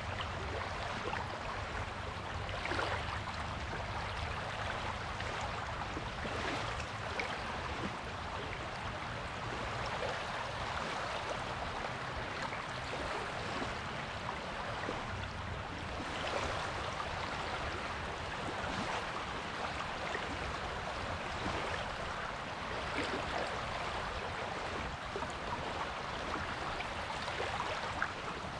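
Small waves washing up on a beach: a steady hiss of moving water, with a gentle swell every few seconds as a wave breaks.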